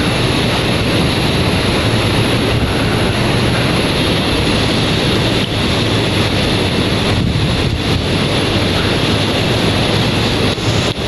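Wind buffeting the microphone: a loud, steady rumbling noise with no break.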